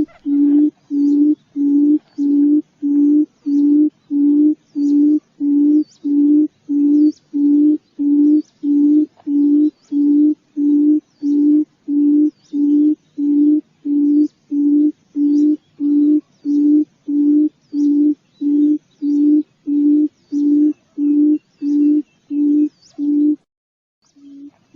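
Quail lure call, played to draw in wild quail: a low hooting note repeated evenly about twice a second, with a brief break near the end.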